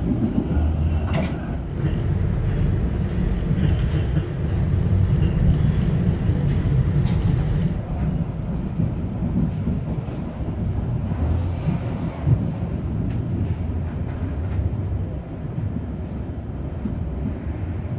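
Passenger train in motion, heard from inside the coach: a steady low rumble of the carriage running on the track, with a few faint knocks.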